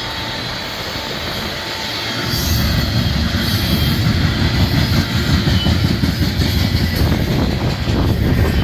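Freight train of coal hopper cars rolling past on the rails: a steady rumble of steel wheels on track that grows louder about two seconds in, with a few sharp wheel clacks near the end.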